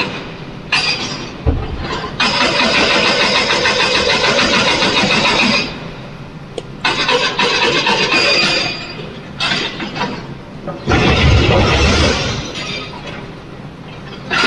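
Heavy diesel machinery engines running and revving in repeated surges, with loud stretches and brief dips between them and a deep low surge near the end.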